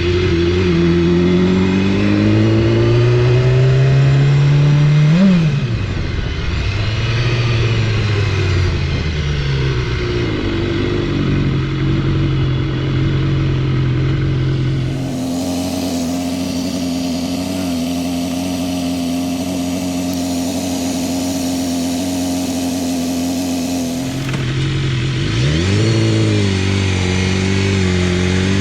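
BMW S1000RR motorcycle's inline-four engine running under way: the pitch climbs for the first few seconds, drops sharply and climbs again about five seconds in, holds a steady note through the middle, then dips and rises once more near the end.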